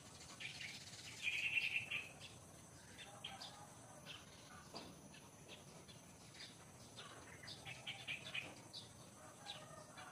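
Wild birds chirping: many short, scattered calls, with one louder half-second call about a second and a half in.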